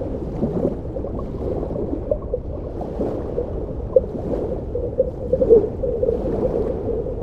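Water gurgling and bubbling, with many small irregular pops.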